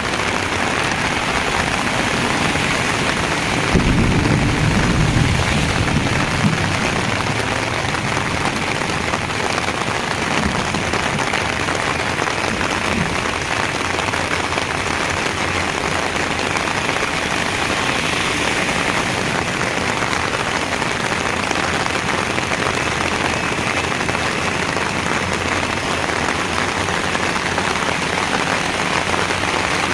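Heavy rain pouring steadily, with a brief low rumble about four seconds in.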